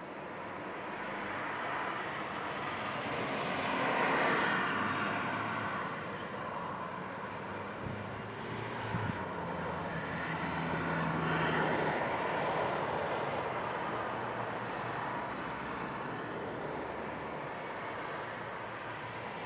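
Boeing 777 freighter's jet engines roaring as the aircraft passes. The sound swells to a peak about four seconds in and again around twelve seconds, then slowly fades.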